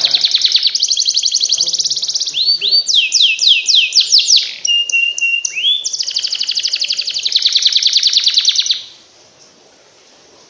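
Canary song played as a tutor recording: fast rolling trills of sweeping high notes and rapid repeated chips, broken by a short held whistle about halfway through. The song stops abruptly near the end.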